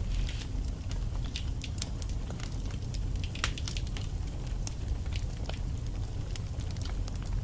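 Wood fire burning in a fireplace: irregular sharp crackles and pops of the burning logs over a steady low rumble of the flames.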